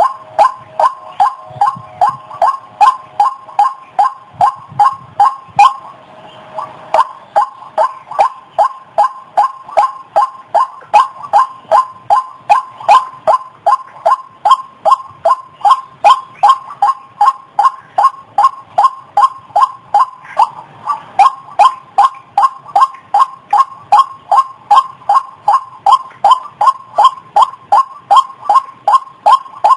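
White-breasted waterhen (ruak-ruak) calling: a long run of short, evenly repeated notes, about two a second, with a brief pause about six seconds in.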